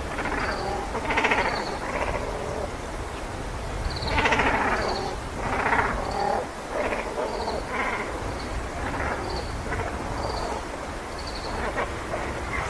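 Birds calling: a series of harsh, raspy calls about every second. A short high note repeats in the background.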